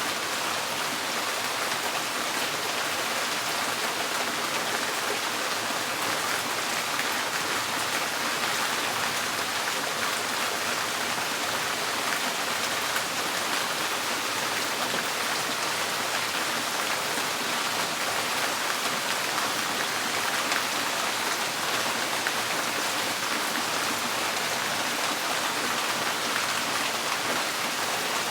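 Steady rain drumming on a tin porch roof, a dense even patter of drops with no let-up.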